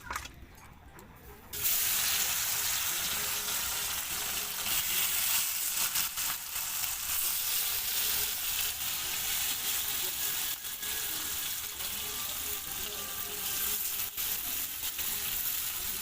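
Pieces of marinated snakehead (shol) fish frying in hot oil in a kadai: a steady loud sizzle with small crackles that starts suddenly about a second and a half in, as the fish goes into the oil.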